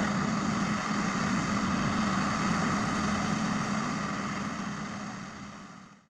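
Heavy forestry machine's engine running steadily with a low hum, fading out near the end.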